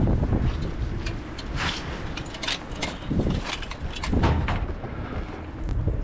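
Blizzard wind buffeting the microphone in uneven gusts, with scattered short clicks and knocks.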